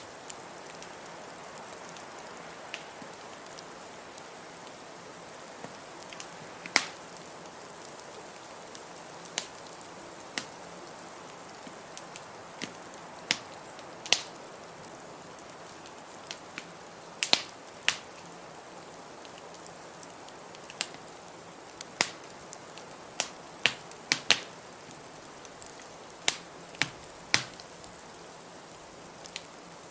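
Wood fire crackling, with sharp pops at irregular intervals over a steady rushing hiss of blizzard wind.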